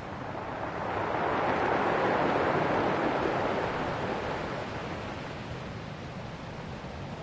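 Ocean waves washing ashore: one wave swells about a second in, peaks, and recedes over a few seconds.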